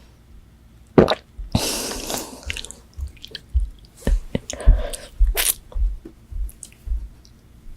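Close-miked eating: a crisp bite into a fried chicken nugget with a short crackle, then wet chewing at about two chews a second.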